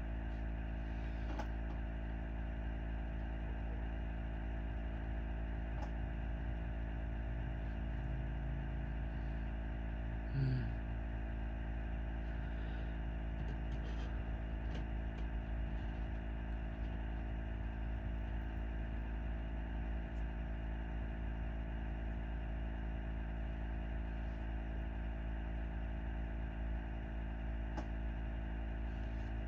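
Steady electrical hum of room noise, with a few faint clicks and one brief soft sound about ten seconds in.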